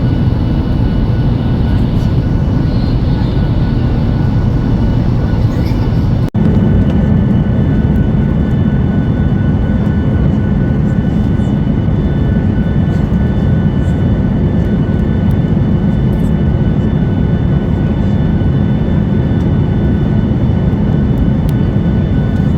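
Steady cabin noise inside a Ryanair Boeing 737-8200: a loud, even roar of engines and airflow with a few thin, steady whining tones over it. The sound drops out for an instant about six seconds in, then carries on a little fuller in the low end.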